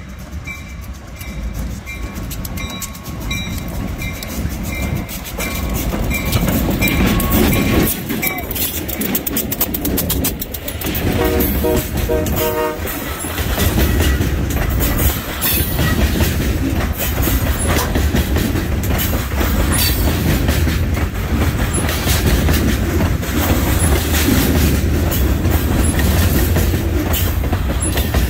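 Freight train passing close by. A bell-like ding repeats about twice a second as the locomotive approaches, the locomotive's horn sounds for about two seconds around eleven seconds in, and then loaded covered hopper cars roll past with a heavy rumble and the rhythmic clickety-clack of wheels over rail joints.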